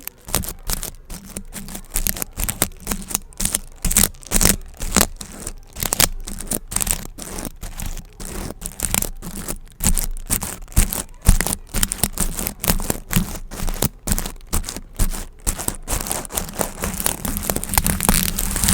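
Gift ribbon bows being handled close to the microphone: a quick, irregular run of short crisp crinkles and scratches.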